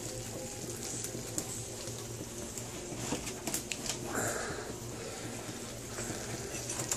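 Low, steady sizzle of food frying in pans on a stovetop, with a few light clicks and taps of kitchen utensils.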